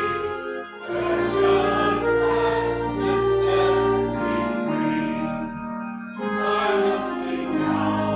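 Choir singing a hymn with instrumental accompaniment, long held notes over a sustained bass.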